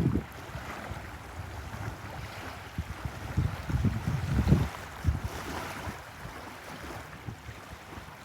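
Wind buffeting the microphone in irregular low gusts, heaviest about three to five seconds in, over a steady outdoor hiss.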